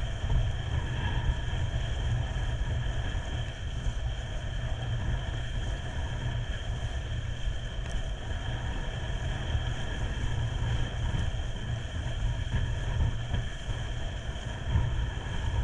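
A boat engine running steadily under heavy wind rumble on the microphone, with a faint steady whine above.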